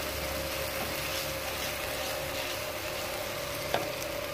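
Ginger-garlic paste sizzling in hot oil in a pan as a wooden spatula stirs it, over a steady hum. A single sharp knock, the loudest sound, comes near the end.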